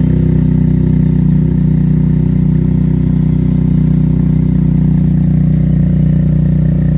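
Benelli TNT 300's parallel-twin engine idling steadily through an aftermarket Akrapovic exhaust, just after a cold start and not revved.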